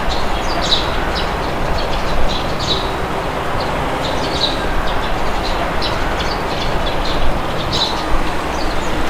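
Steady wind blowing, with many short bird chirps scattered through it.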